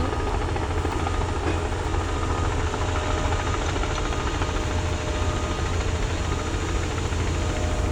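Diesel tractor engine idling: a steady low rumble with a faint tone that comes and goes above it.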